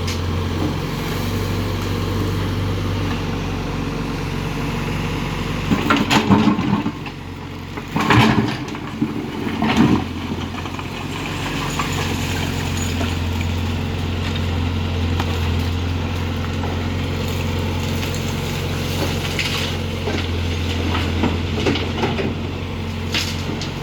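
Backhoe loader's diesel engine running steadily, with loud crashes of rubble about six, eight and ten seconds in as the debris is scooped and dumped.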